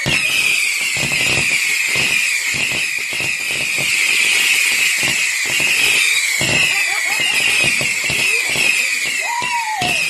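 A whistling firework screeching continuously: a rapid run of short falling whistles, several a second, with crackling underneath.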